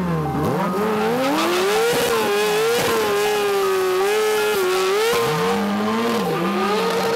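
Tyres squealing in a long, wavering high tone over an engine revving up and down: a vehicle sliding its rear tyre or tyres.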